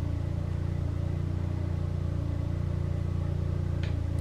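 A steady low hum with several held tones, unchanging throughout, with a faint short tick near the end.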